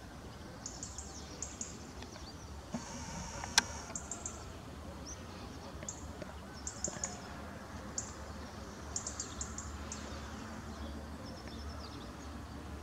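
Small birds calling in short, high chirps, in little clusters every second or so, over a low steady background rumble. One sharp click about three and a half seconds in.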